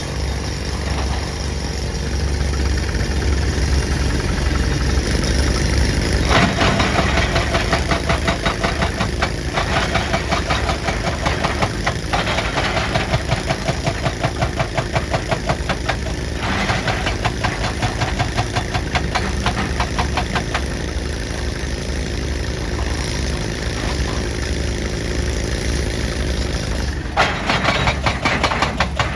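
Excavator-mounted hydraulic breaker hammering rock in long runs of rapid, evenly spaced blows over the steady running of the excavator's engine. The hammering starts about six seconds in, breaks off briefly a few times, stops for several seconds, and starts again near the end.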